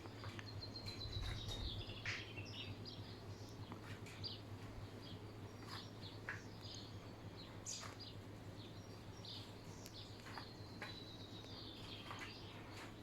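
Birds calling: scattered short high chirps, with a descending trill near the start and again about ten seconds in. A steady low hum runs underneath.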